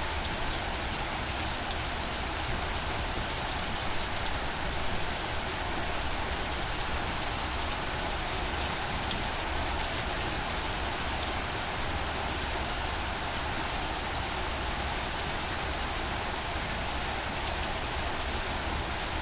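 Steady rainfall: an even hiss of rain with many small drops pattering on a surface, without letting up.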